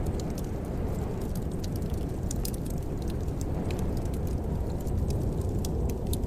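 Fireplace fire crackling, with irregular sharp pops and snaps over a steady low rumble of the burning fire.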